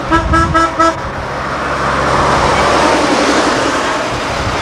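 Car horn tooted four times in quick succession, then a car engine running with road noise swelling and fading as it goes by.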